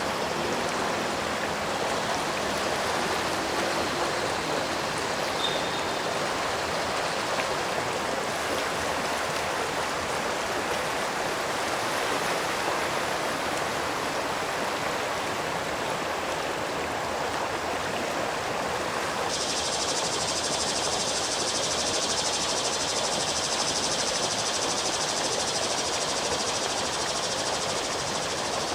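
Steady rush of a flowing stream. About two-thirds of the way through, a brighter, higher hiss comes in suddenly and stays.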